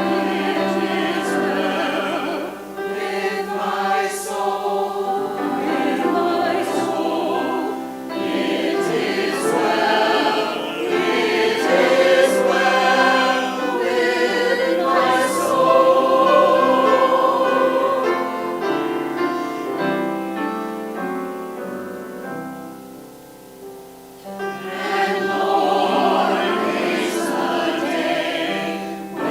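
Many voices singing a hymn together in long, held notes, with a brief softer gap about 23 seconds in before the singing picks up again.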